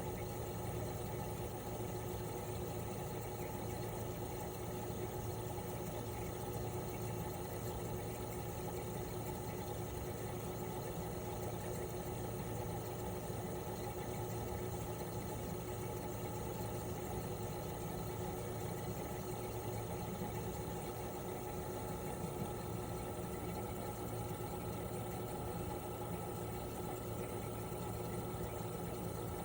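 Outdoor unit of a 1997 Toshiba RAS-285BAD mini-split air conditioner running steadily in cooling mode. Its twin-rotary inverter compressor gives a smooth, even hum with steady low tones, under the rush of the unit's propeller fan.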